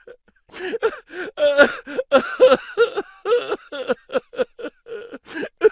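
A person's voice making short wordless sounds in quick succession, like gasps, groans and chuckles, with the pitch bending up and down.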